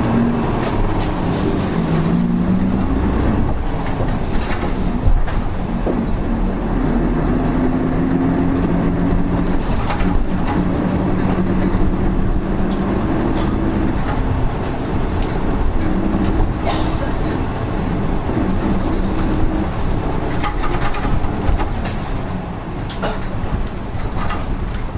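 Diesel engine of a PKG-RA274MAN city bus heard from inside the cabin while the bus is under way. The pitch climbs in the first few seconds, then holds fairly steady, with occasional rattles and knocks. This bus's engine note is unusual and sounds different from others of the same type.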